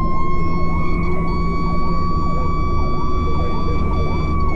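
Fire engine's siren sounding a long, slow wail that dips in pitch near the end, heard from inside the cab over the steady low rumble of the truck's engine and road noise. A second, faster yelping siren sounds faintly underneath.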